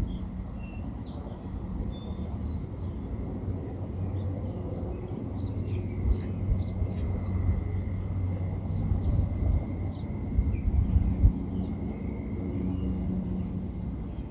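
Outdoor ambience: wind rumbling on the microphone, with a few louder gusts, and scattered short bird chirps over it.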